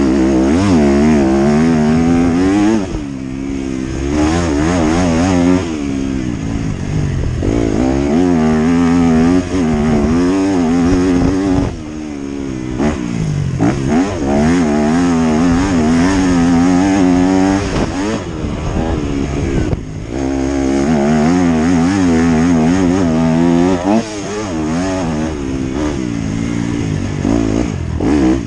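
Motocross bike engine being ridden hard, revving up and easing off again and again with the throttle, its pitch rising and falling. It drops off briefly a few times, around 3, 12, 20 and 24 seconds in.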